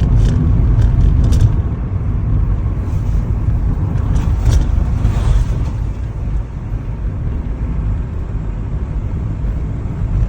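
Steady low rumble of a car driving on the road, with a few faint brief clicks over it.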